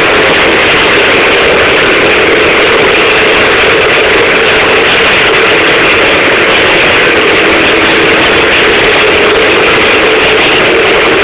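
1984 Husqvarna WR400 two-stroke single-cylinder engine running at a steady speed, loud enough to distort.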